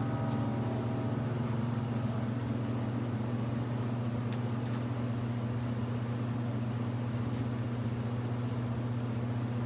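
A steady low hum that holds one pitch throughout, with a faint click just after the start.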